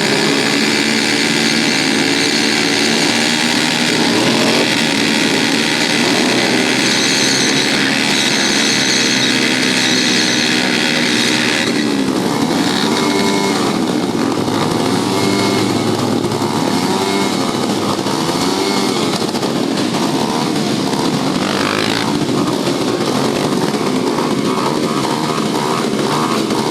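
Motorcycle engines running loudly, their pitch rising and falling repeatedly as they rev from about halfway through.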